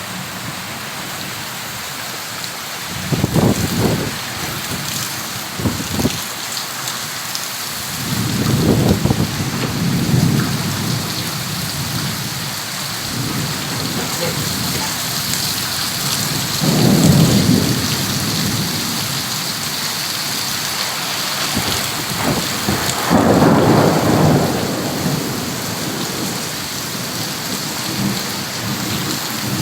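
Heavy rain falling steadily, with five low rumbles that swell and fade, the loudest about a third and three quarters of the way in.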